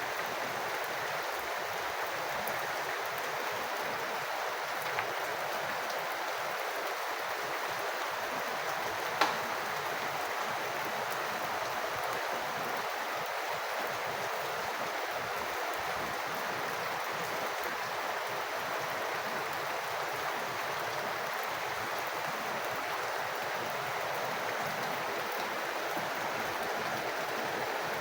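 Steady rain and falling rainwater, an even unbroken hiss. There is a faint tap about five seconds in and a single sharper tap about nine seconds in.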